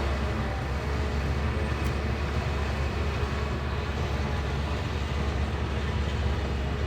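Bulldozer's diesel engine running steadily at working revs, a deep even drone.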